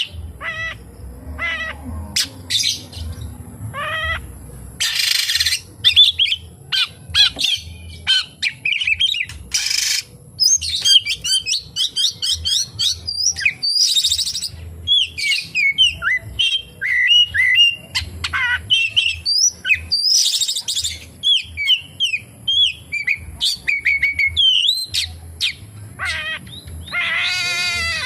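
Oriental magpie-robin (kacer) singing a long, varied song of quick whistled notes and slurs. Harsh rasping notes break in every few seconds. The song is filled with mimicked phrases of the white-shouldered triller (kapas tembak).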